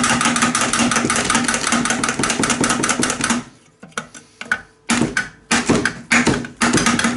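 Rapid, continuous hammering on hard, rock-like material, with a ringing metallic tone. It stops about three and a half seconds in, and a few separate knocks and clatters follow.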